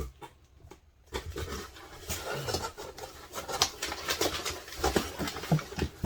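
Packing tape being cut and peeled off a cardboard box, with crackling tape and rustling, knocking cardboard starting about a second in.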